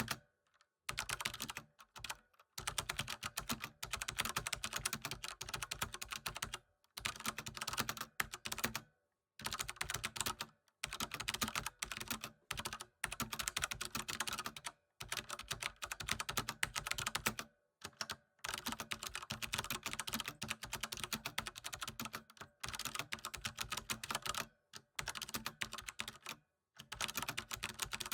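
Computer keyboard being typed on in fast, steady runs of key clicks, broken every few seconds by short pauses.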